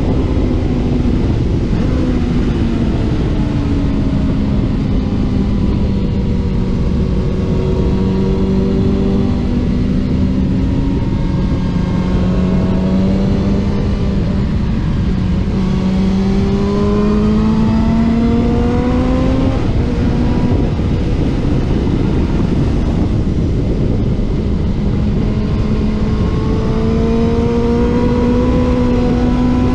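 Racing motorcycle engine heard onboard at speed, its pitch climbing under throttle and falling back at gear changes and corners, with a long slow climb through the middle, over heavy wind rush.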